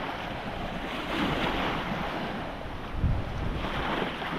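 Wind buffeting the microphone over small waves breaking and washing on a sandy bay shore, a steady rushing noise with a brief swell about three seconds in.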